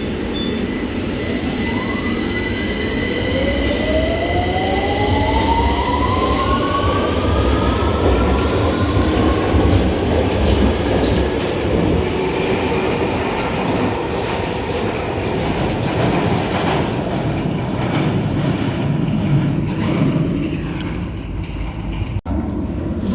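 London Underground train pulling out, its traction motors whining upward in pitch as it accelerates over a steady rumble of wheels on track.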